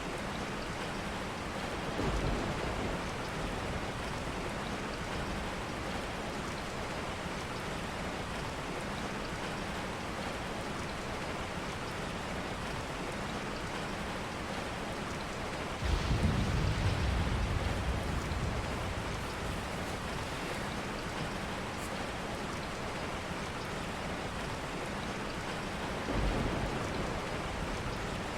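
Steady rain falling, with low thunder rumbles three times: a short one a couple of seconds in, the longest about halfway that fades over a few seconds, and another near the end.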